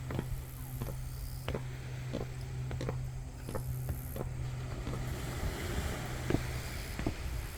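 Footsteps walking along a beach, about one and a half steps a second, over the wash of waves and a steady low hum. The steps break off briefly past the middle, then resume.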